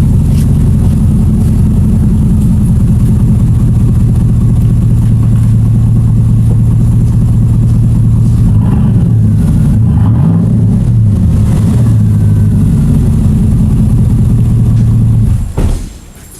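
GMC 3/4-ton pickup's 6.0 L gas V8 running on its stock exhaust, before a Flowmaster Super 44 muffler is fitted. It idles steadily, is revved up and back down a few times in the middle, and the sound stops abruptly near the end.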